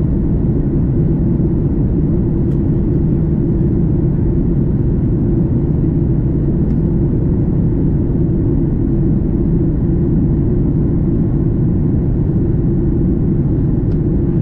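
Steady, loud low rumble of airflow and engines heard inside the cabin of a Boeing 737 MAX 8 in flight.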